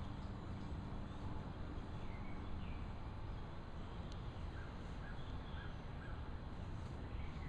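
Faint short bird chirps, a few in quick succession near the middle, over a steady low outdoor rumble, with a single sharp click about four seconds in.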